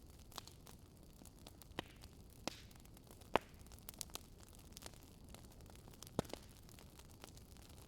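Wood fire crackling: irregular sharp pops and snaps over a low, steady hiss, the loudest pop about three and a half seconds in.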